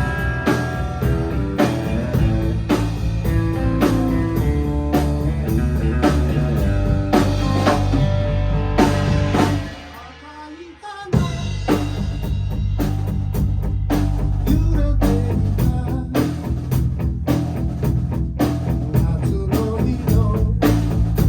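A band playing live in rehearsal, drum kit and guitar. The music stops dead for about a second and a half about halfway through, then the band comes back in together.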